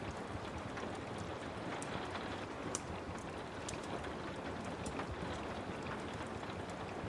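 Steady rain with the scattered crackles of a wood fire burning in a fireplace, one sharper pop a little under three seconds in.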